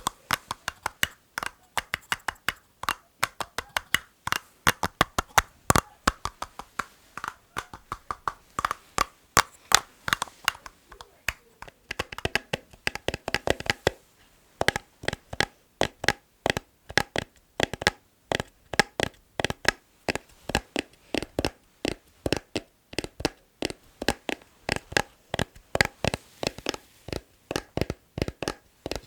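Fingers tapping rhythmically on hard household items, quick sharp taps several a second in bursts and patterns, some taps ringing briefly with a pitch. A denser flurry of taps comes about halfway through.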